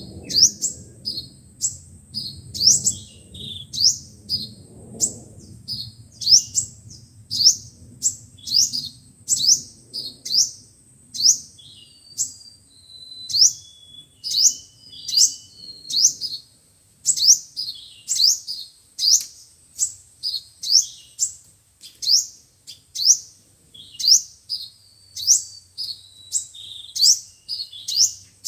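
Sunbirds calling: a continuous run of sharp, high chips, each sweeping quickly downward, about two a second, with a faint steady high whine underneath.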